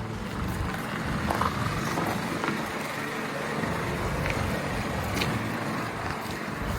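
Chrysler Windsor's six-cylinder Spitfire flathead engine running steadily.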